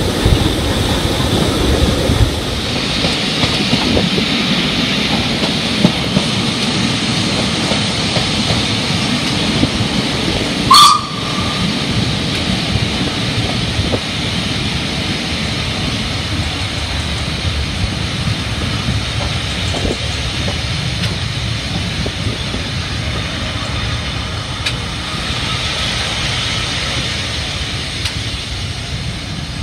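Steam-hauled passenger train running, heard from an open carriage window: a steady rumble of wheels on rail with a hiss of rushing air. About eleven seconds in there is one very short, loud, sharp sound, the loudest moment of the run.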